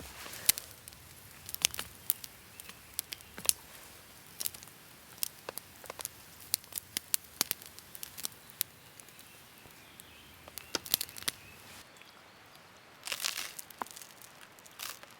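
Dry wood crackling and snapping in irregular sharp cracks, with a brief rustle about thirteen seconds in.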